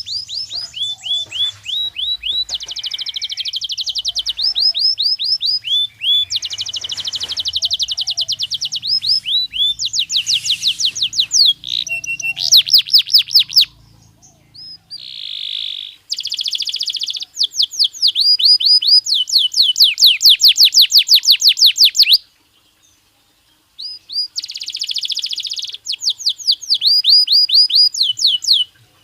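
Belgian canary singing in long phrases of fast, repeated high whistled notes and rapid trills, each phrase a run of quick identical sweeps. The song breaks off briefly about halfway through and again later.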